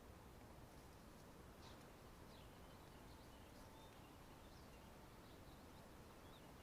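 Near silence: faint background noise with a scattering of short, faint high-pitched chirps.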